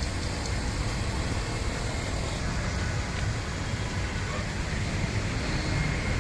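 Steady city road-traffic noise: a continuous low rumble of passing vehicles, with no distinct horn or engine standing out.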